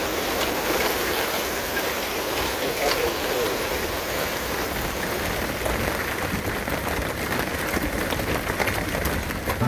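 Storm wind blowing hard across the water with rain falling: a steady rushing noise.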